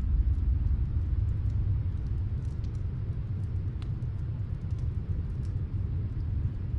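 Snowstorm wind, a steady low rumble, with a fireplace fire crackling faintly in the background as scattered small ticks.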